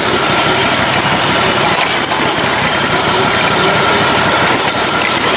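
Engine of a modified riding mower running steadily and loudly.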